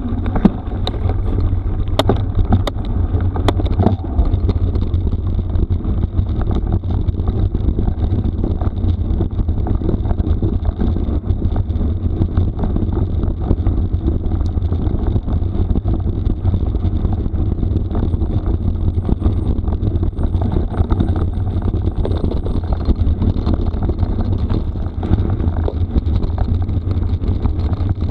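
Wind rumbling on the microphone of a camera riding a mountain bike down a rough gravel road, with steady tyre and rattle noise. A few sharp knocks or clacks come in the first few seconds.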